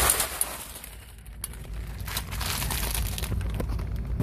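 Irregular rustling, crinkling and scraping as a person crawls out through a tight crawl space, loudest right at the start.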